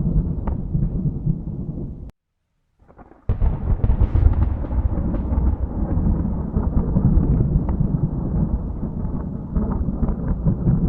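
Thunder rumbling, low and continuous, that cuts out abruptly about two seconds in and comes back about a second later, swelling again.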